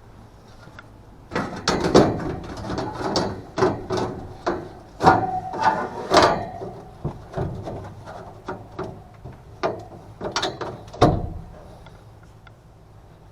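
Irregular clattering and knocking of hand tools and metal parts being handled during work on an HVAC unit, with a brief squeak partway through.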